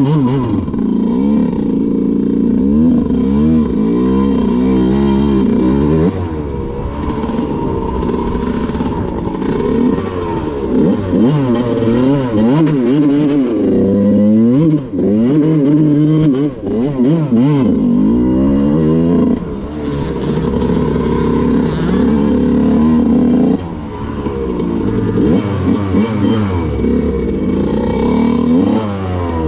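Two-stroke dirt bike engine being ridden, revving up and dropping back over and over, its pitch climbing and falling repeatedly.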